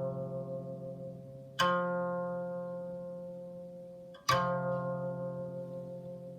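Solo Chinese zither music: two plucked chords, about one and a half seconds in and again about four seconds in, each left to ring out and fade slowly.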